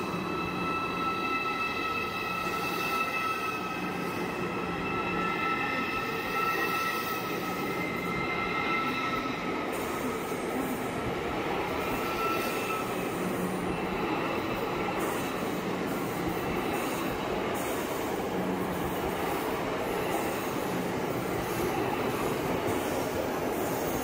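Deutsche Bahn ICE high-speed train rolling slowly past along the platform. Several steady high-pitched tones sound over the rolling noise and fade out about halfway through, leaving the rumble of wheels on rail with light clicks.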